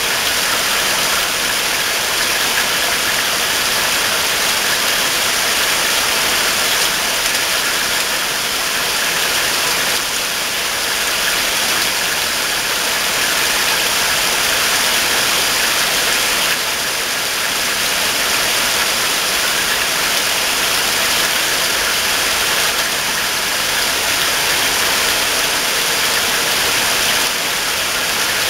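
Heavy rain falling steadily: a loud, even hiss.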